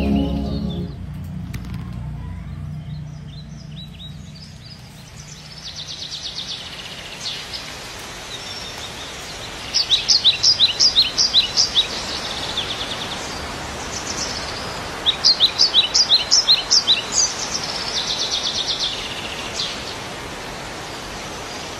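A songbird calling over a steady outdoor background hiss. It gives two loud runs of quick, sharp, falling notes about five seconds apart in the middle, with softer trills between them.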